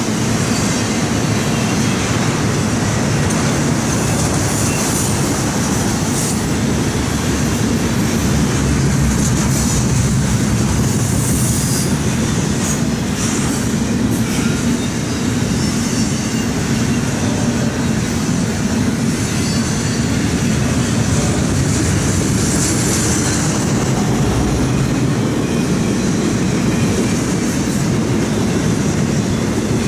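A train's cars rolling past on the rails in a steady, loud rumble of wheel noise, with short high-pitched wheel squeals rising out of it several times.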